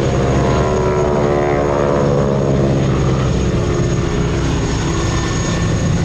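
Boeing Stearman biplanes' 450 hp radial engines and propellers running hard in a dive, a steady loud drone whose pitch slowly falls as the aircraft pass.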